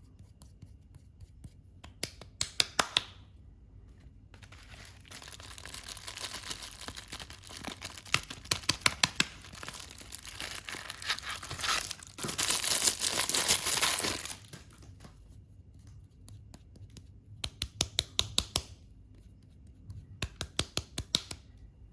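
Soap packaging being torn open and crinkled by hand: a long stretch of crinkling builds to a loud tear lasting about two seconds around the middle, with quick runs of crackly clicks before and after.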